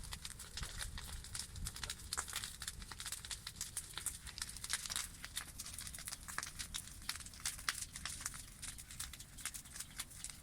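Campfire crackling: a steady run of irregular sharp pops and snaps over a faint hiss.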